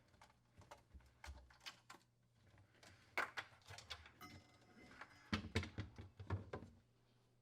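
Faint scattered clicks, rustles and light plastic knocks of a refrigerator's wire harness and its plastic slide-assembly parts being handled and pulled free. The handling is busiest about three to four seconds in and again around five to six and a half seconds in.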